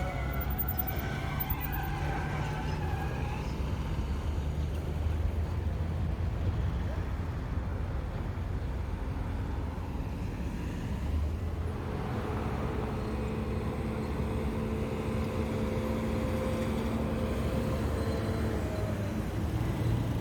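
Big truck engines running as the trucks manoeuvre at low speed, a steady low rumble. From about twelve seconds in, a steady droning engine tone rises above it and fades out near the end.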